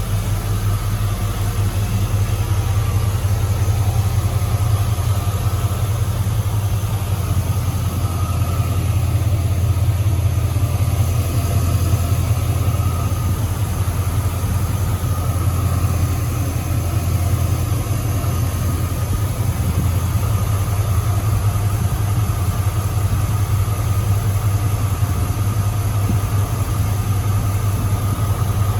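2002 Chevrolet Silverado pickup's engine idling steadily, a low even hum.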